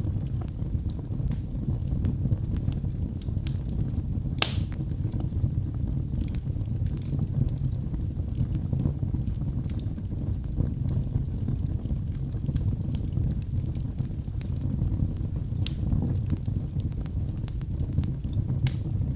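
Wood fire burning in a fireplace: a steady low rumble of flames with irregular sharp crackles and pops, the loudest pop about four and a half seconds in.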